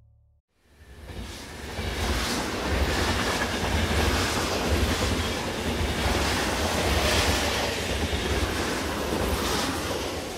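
Passenger train running on the track, heard from on board: a steady low rumble with rail and wheel noise, fading in over the first couple of seconds and fading away near the end.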